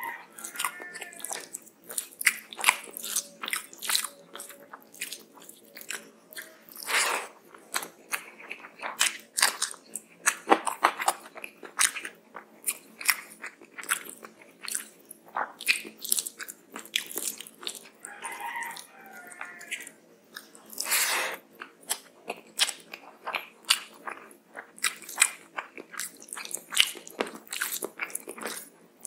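Close-miked mouth sounds of a person chewing rice and curry eaten by hand, with wet smacking clicks several times a second and a few louder bites about 7, 10 and 21 seconds in.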